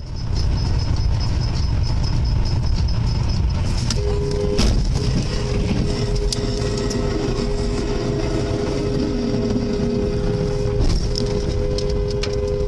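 Road and engine rumble from a moving car, with a car horn sounding one long steady two-tone blast from about four seconds in. The horn breaks off briefly, then holds on to the end.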